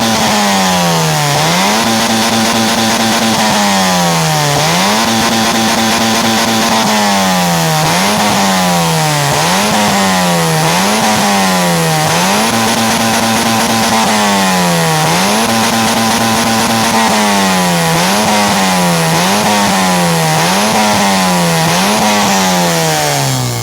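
Honda Civic FD engine through a full custom racing exhaust, revved repeatedly: each blip climbs fast, holds briefly at high revs, then falls back. It does this about a dozen times, quicker and shorter in the middle, and settles down toward idle at the end.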